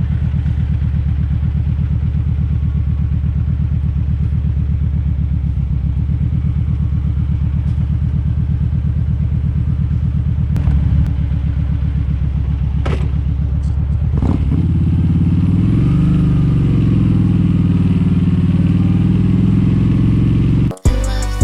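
Kawasaki Vulcan 1700 Vaquero's V-twin engine running at a steady low speed with an even pulsing beat. About two-thirds through, the engine note changes and wavers up and down, with a few sharp knocks before it. Music cuts in just before the end.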